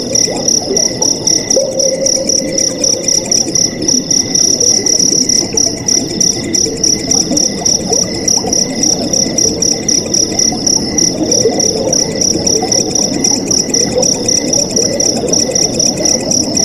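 Night crickets chirping in a steady, rapidly pulsing high trill, over the continuous rush and gurgle of flowing water.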